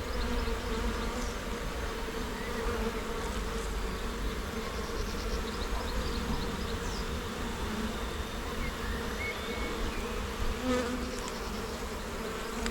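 Honey bees buzzing steadily around an open hive, a continuous hum.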